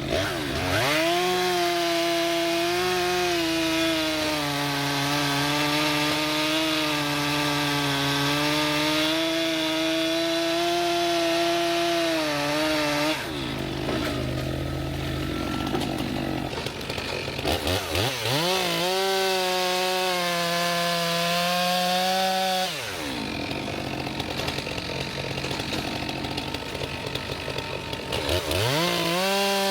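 Stihl MS 261 chainsaw revving up and cutting through a log for about twelve seconds, its pitch wavering under load, then dropping back to idle. It makes a second, shorter cut of about five seconds, idles again, and revs up once more near the end.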